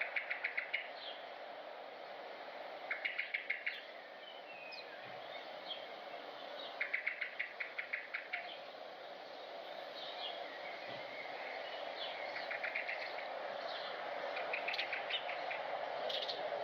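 Bird calls: short bursts of rapid trilled notes, each about a second long, repeated about six times over a steady background hiss.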